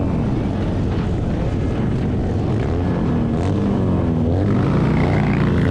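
Motorcycle engine running under way, its pitch wavering, over a steady rush of wind noise.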